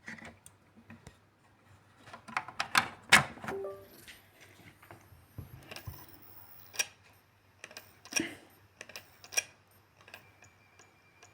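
Small hardware being handled: an irregular string of plastic and metal clicks, taps and rattles as a drive and its cable are fitted together, over a faint low hum.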